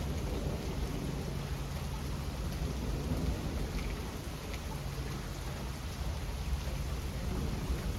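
Steady rain falling, with a low rumble of thunder that eases off over the first few seconds and goes on faintly underneath.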